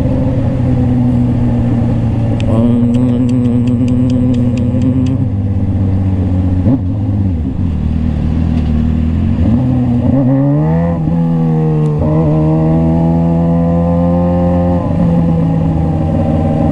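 Suzuki GSX-R600's inline-four engine running while riding: a steady drone that drops in pitch a little after the middle as the bike slows, then climbs as it accelerates and settles into a steady cruise.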